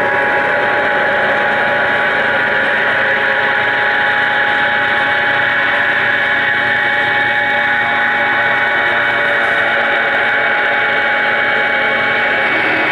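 Live band playing a loud, steady drone: several held tones over a dense, even wash of amplified sound, with no beat.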